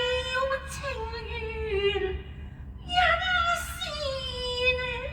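A high woman's voice singing slow, long-held notes with vibrato, in two phrases with a short breath between them about two seconds in.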